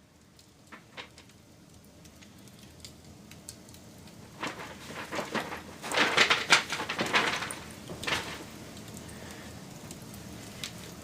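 Wood fire crackling and popping: scattered sharp pops, then a dense run of loud crackles in the middle, over a soft steady hiss.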